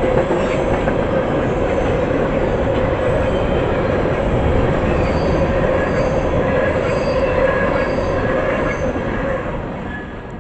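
Freight train of empty tank cars rolling through a grade crossing: a steady rumble of steel wheels on rail with a sustained wheel squeal. A crossing bell dings about every 0.7 s in the second half, and the train noise fades near the end.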